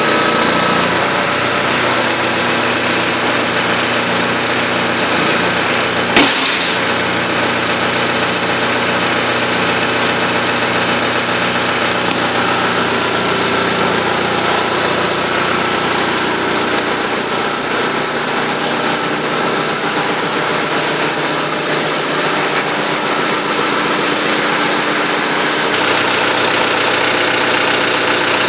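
Tractor engine running steadily, with one sharp clank about six seconds in.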